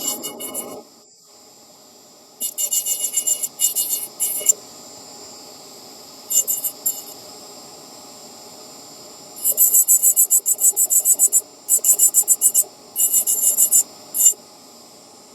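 Bursts of rapid scratchy strokes, about a dozen a second, from polishing a carved nut-shell figure by hand, stopping and starting several times, over a faint steady hum.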